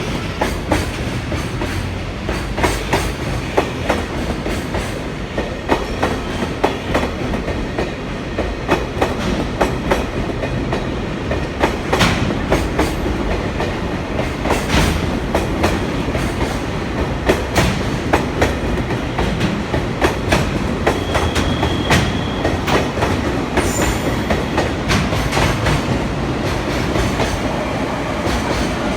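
Freight train rolling past as it pulls away, its wagon wheels clicking rhythmically over the rail joints, with a brief high squeal about three-quarters of the way through.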